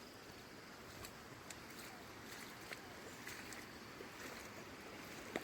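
Floodwater from an overflowing lake rushing steadily, with a few faint ticks over it.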